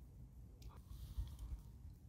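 Faint mouth sounds of a bite of grilled pig testicle being bitten and chewed: a short sharp sound a little under a second in, then a soft hiss, over a low steady rumble.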